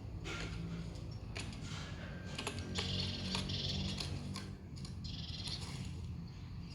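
Birdsong chirps and trills from a bird video playing through a tablet's small speaker, mixed with quick tapping clicks, over a steady low hum.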